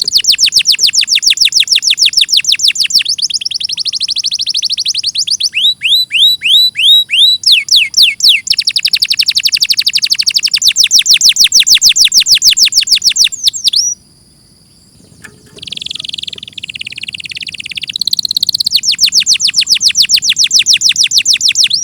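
Domestic canary singing a long song of fast trills: runs of rapid, high, sweeping notes repeated ten or more times a second, changing from one trill to another every few seconds. The song breaks off for about a second and a half a little past the middle, then starts again with more trills.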